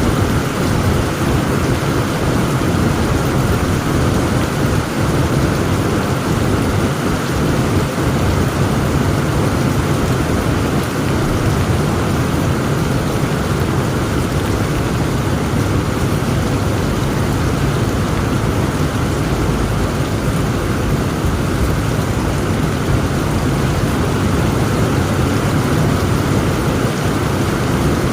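Heavy rain pouring steadily, with a continuous deep rumble of thunder beneath it and no distinct claps.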